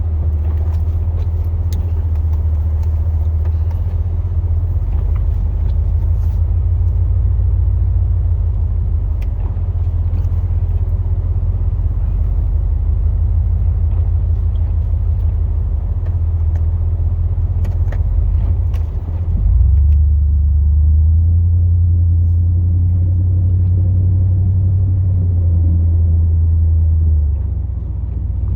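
Low, steady engine rumble of a 2002 Chevrolet Silverado's 8.1-litre big-block gas V8 pushing a snowplow. About two-thirds of the way through it dips briefly, then comes back louder and higher, and it eases off again near the end.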